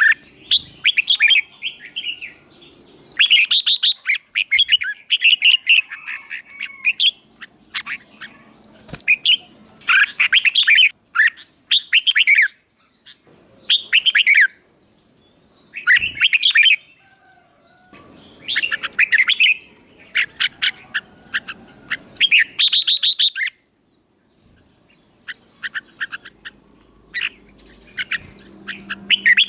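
Songbird singing in fast, chattering phrases of rapid chirps. The phrases come in bursts every second or two with short pauses between them.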